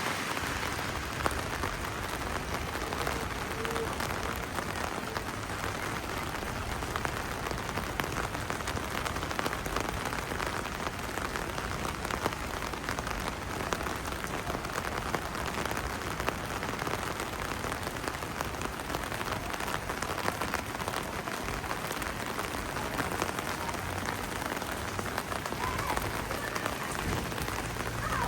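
Steady rain falling on a street, an even hiss with many individual drops ticking.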